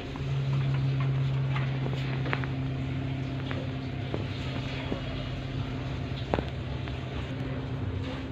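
Scattered sharp little clicks of a ringneck parakeet's beak cracking seeds, one stronger crack about six seconds in, over a steady low machine hum.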